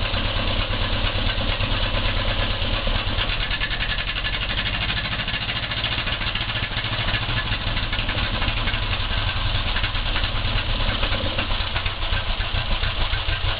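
1935 Kelvin E2 marine petrol/paraffin engine running at a steady idle with a rapid, even beat. It dips a little in loudness about five seconds in, then picks up again near the end.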